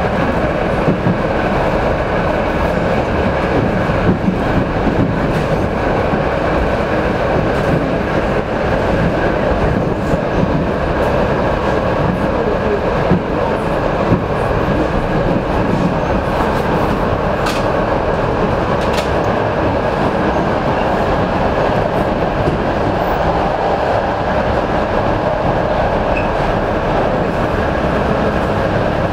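Interior running noise of an ET2M electric multiple unit under way: a steady rumble of wheels on rail, with a few brief louder knocks.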